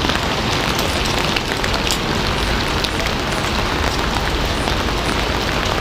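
Steady heavy rain falling and splashing on a hard surface, a dense even hiss with scattered individual drop ticks.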